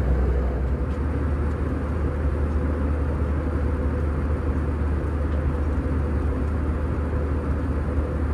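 Steady low drone of cabin noise inside an Airbus A321 in flight: engine and airflow noise heard from the passenger cabin, with a faint steady hum above it.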